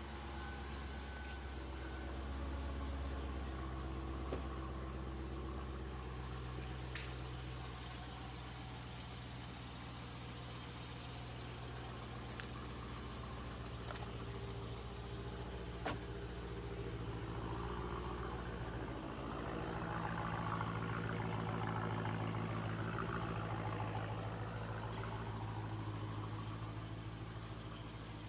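Car engine running steadily at a low, even speed, getting a little louder about two-thirds of the way through.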